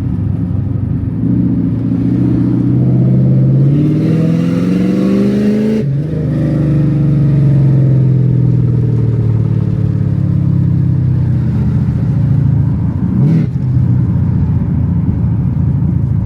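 Mercedes-Benz 560 SEC's 5.5-litre M117 V8 accelerating hard, its pitch rising for a few seconds until a shift cuts it off about six seconds in. It then pulls on in the next gear with the pitch easing slowly down, and has another brief interruption near the end.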